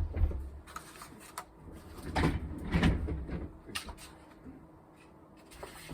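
Handling noises: low thuds and rubbing just after the start and again about two to three seconds in, with a few light knocks in between.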